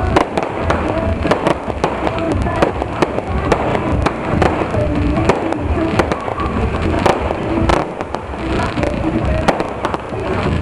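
Firecrackers popping in many irregular sharp cracks over loud music.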